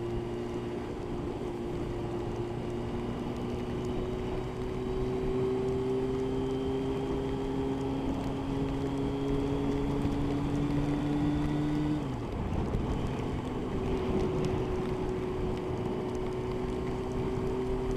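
Motorcycle engine at motorway cruising speed over steady wind noise. The engine note slowly rises, drops suddenly about two-thirds of the way through as the throttle is eased, then holds steady again.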